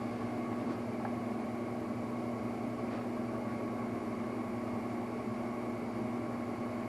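Steady background hum with an even hiss, holding one pitch throughout, with a couple of faint light clicks about a second in.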